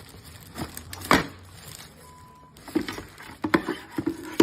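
Irregular knocks and clunks, about seven in all, the loudest about a second in and another right at the end, with a short beep about two seconds in.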